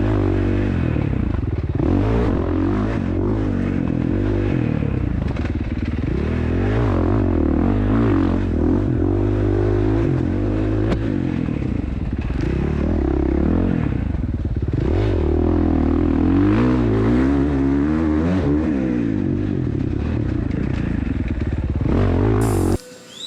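Dirt bike engine ridden hard, revving up and dropping back over and over as the rider works the throttle and gears, with a rush of wind and rattle over it. It cuts off abruptly near the end.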